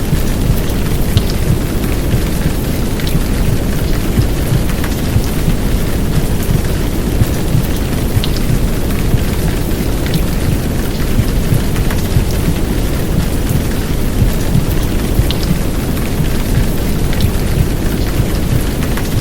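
Heavy downpour rain mixed with deep, womb-like white noise: a steady, dense rushing that is heaviest in the low end. A few sharp drop ticks stand out now and then.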